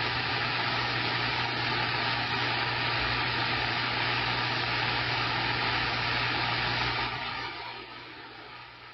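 CB radio receiver putting out a steady rush of static with a low hum underneath, which drops to a quieter hiss about seven seconds in.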